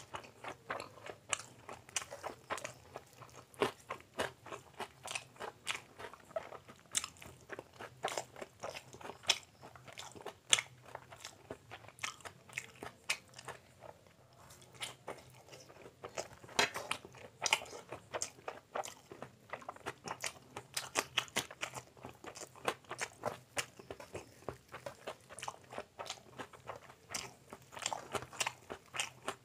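A person chewing mouthfuls of egg omelette eaten by hand, close to the microphone: many quick, irregular wet clicks and smacks of the mouth.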